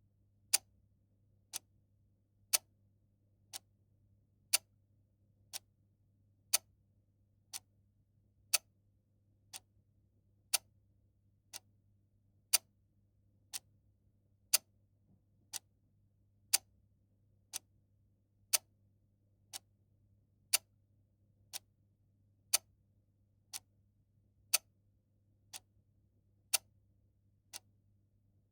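Clock ticking steadily, one tick a second, with the ticks alternating louder and softer in a tick-tock pattern.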